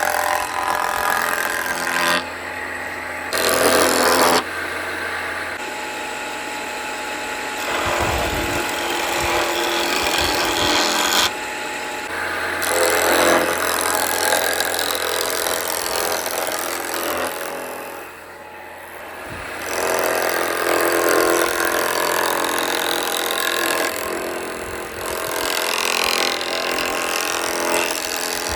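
A homemade electric woodworking machine runs under load, working through wood. The noise swells and eases over a steady motor hum and dips briefly about two-thirds of the way through.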